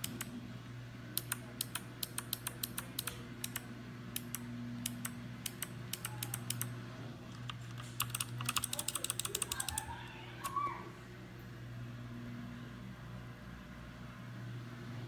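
Typing on a mechanical gaming keyboard: irregular key clicks for about ten seconds, speeding into a quick flurry near the end of the typing, then stopping. A steady low electrical hum runs underneath.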